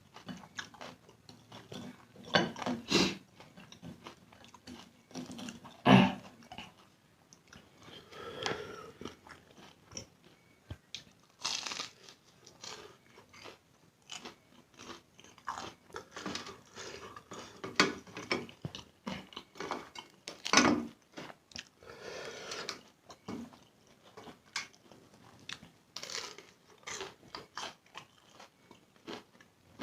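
Close-miked mukbang eating of spicy instant noodles: wet chewing and mouth smacks in an irregular run, with a few louder bites or slurps now and then.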